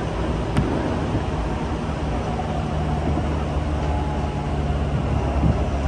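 Tobu Urban Park Line local train running at speed, heard from inside the car: a steady rumble of wheels on rail with a low hum, and a single brief click about half a second in.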